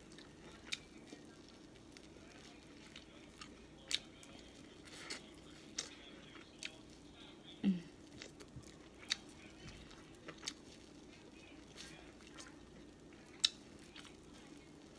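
Close-up eating sounds: chewing and wet mouth smacks, with short sharp clicks and cracks scattered irregularly throughout.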